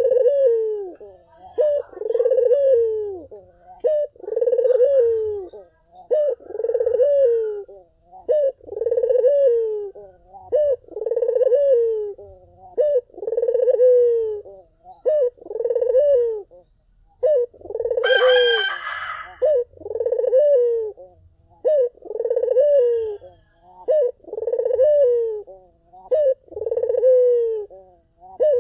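Barbary dove (puter) cooing over and over, one falling coo about every second. A brief harsher, noisier sound cuts in about two-thirds of the way through.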